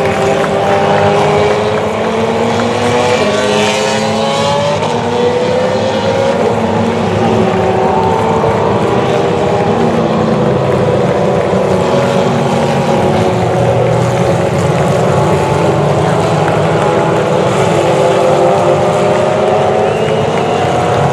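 GP3 race cars' 3.4-litre V6 engines running at racing speed, several engine notes overlapping, each slowly rising and falling in pitch without a break.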